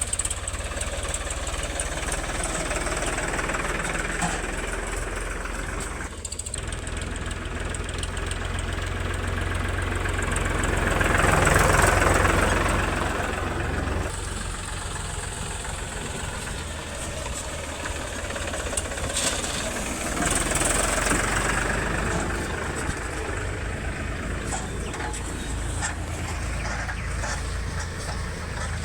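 Diesel engine of heavy machinery running steadily, swelling louder twice as it is revved or worked: most strongly about twelve seconds in, and again about twenty seconds in.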